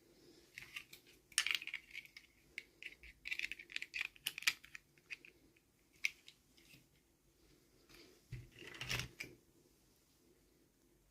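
Small plastic toy pieces and packaging being handled: a run of light clicks and taps, densest in the first few seconds, with a louder knock about nine seconds in.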